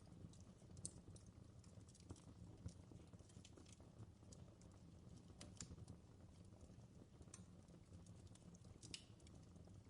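Fireplace crackling faintly: irregular small pops and snaps over a low steady rumble of the fire.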